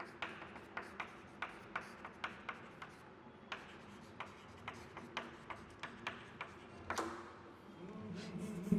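Faint writing on a board or tablet, heard as a string of short, sharp pen taps and clicks at irregular intervals, about two or three a second.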